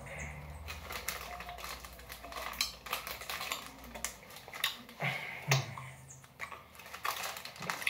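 Chewing sour gummy candies close to the microphone: wet mouth smacks and clicks in quick, irregular bursts, louder in the second half.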